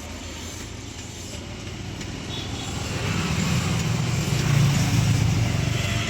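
A low mechanical rumble that swells about halfway through and is loudest near the end, over a steady background noise.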